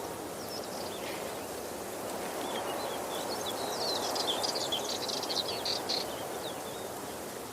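Steady rushing of a waterfall, with birds chirping in quick, high, short notes from about three to six seconds in.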